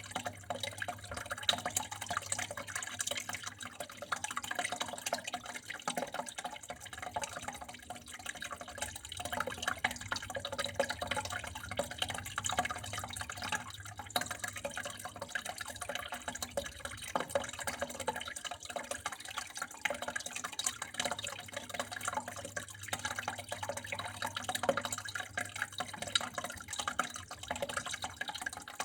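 Water flowing and splashing steadily, with many small irregular drips and trickles. A faint low hum underneath stops near the end.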